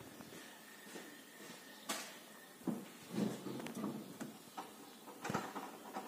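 A few sharp clicks and knocks with light rattling in between, from handling around the car before it is started.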